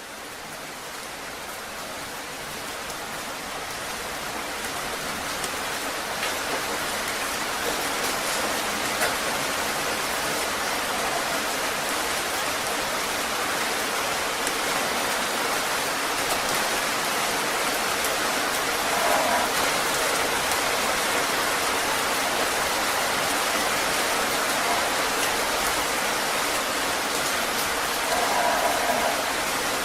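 Heavy rain falling steadily, fading in over the first several seconds, with scattered drops pattering on a surface.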